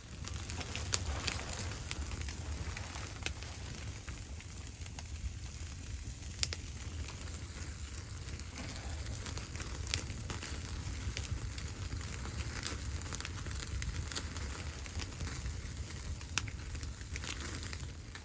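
Wood fire burning with a steady low rumble and scattered crackles, a few sharp pops standing out.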